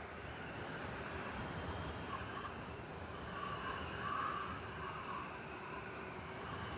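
City snowstorm ambience: steady blizzard wind over a low, distant traffic rumble, with gusts that swell and fade in the middle.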